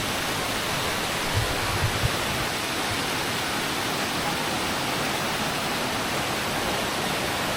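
Steady rush of a large multi-tiered waterfall, its falling water making an even, unbroken roar, with a few soft low thuds a second or two in.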